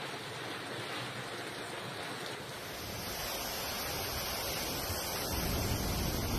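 Steady rushing of floodwater with wind buffeting the microphone, turning heavier and deeper about two and a half seconds in.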